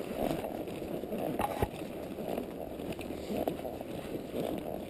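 Quarter horse walking along a brushy trail: scattered hoof steps with rustling as branches and leaves brush past.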